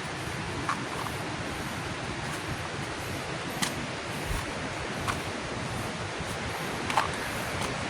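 Waterfall rushing steadily, with a few brief ticks over it.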